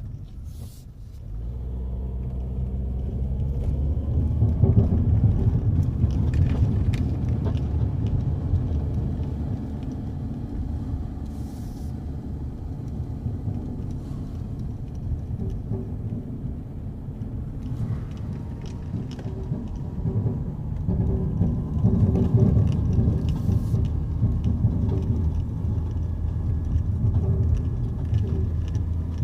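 A car driving, heard from inside the cabin: a steady low road and engine rumble that builds over the first few seconds, with a low rattle from the front passenger side around the footwell.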